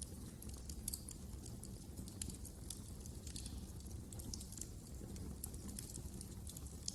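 Fireplace fire crackling: irregular sharp pops and snaps over a low, steady rumble of flames.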